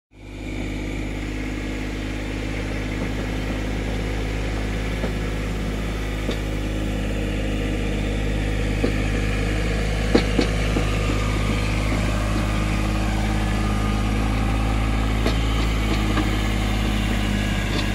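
Motor vehicle engine running steadily with a low, even hum, starting suddenly and growing slightly louder. A few faint clicks come about ten seconds in.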